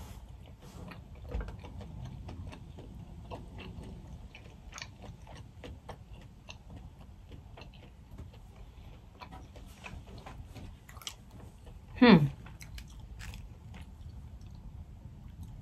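Close-up chewing and mouth sounds of a person eating boiled crawfish meat, with many small clicks. About twelve seconds in there is one brief, louder sound that falls sharply in pitch.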